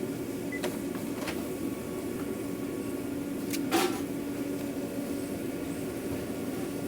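A steady mechanical hum with a few short clicks and knocks, the loudest nearly four seconds in.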